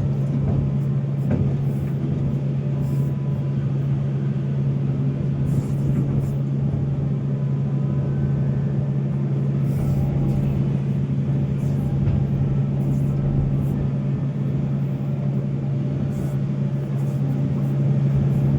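Volvo excavator's diesel engine running at a steady pitch, with a few faint clicks over it.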